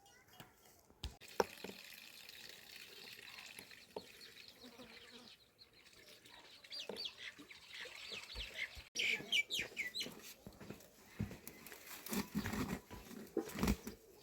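Domestic chickens clucking, with a quick run of high chirps midway and a few knocks.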